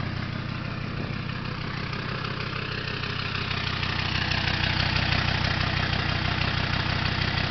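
Turbo diesel engine in a Mazda B2600i pickup idling steadily with an even diesel clatter, on its first run after a head gasket replacement; it sounds as it always did. It grows a little louder about halfway through.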